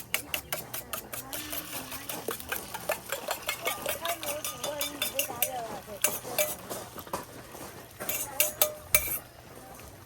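Cutlery clinking and scraping against pans and dishes in a quick, irregular run of small metal clicks, with a few louder knocks near the end.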